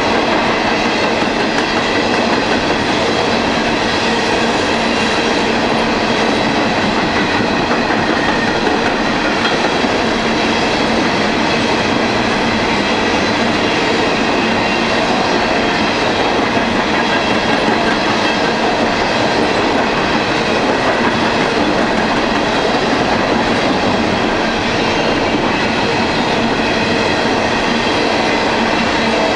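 A long string of VAPX coal hopper cars rolling past at a steady speed: a continuous rumble and rattle of steel wheels on the rails.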